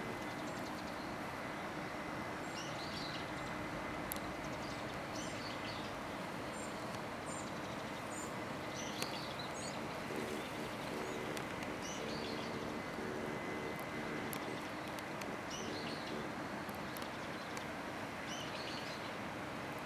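Small birds chirping in short, scattered high calls over a steady outdoor background hiss, with a faint low hum that comes and goes in the middle.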